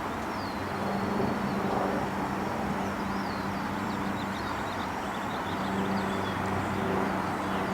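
Steady low rumble and hum of distant vehicle traffic, with a few faint, short, high chirps.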